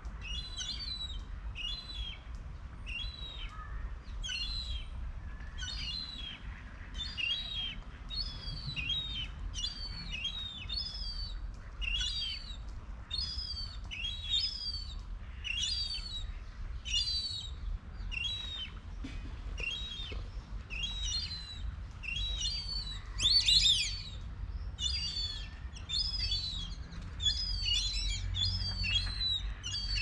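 A bird calling over and over, short high chirps that drop in pitch, about one a second, with one louder call about three-quarters of the way through. A low rumble runs underneath.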